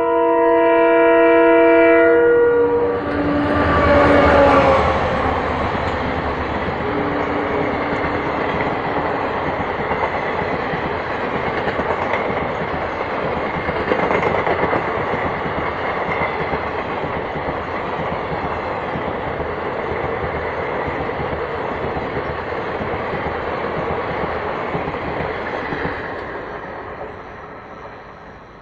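Indian Railways express train's horn blowing a multi-tone chord for about two seconds, then a lower horn tone for a couple of seconds more. The train's rumble and wheel clatter follow as it passes, running steadily for some twenty seconds before fading near the end.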